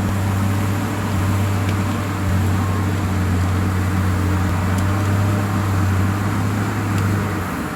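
Engine of heavy logging machinery running steadily, a low, even drone that shifts lower right at the end.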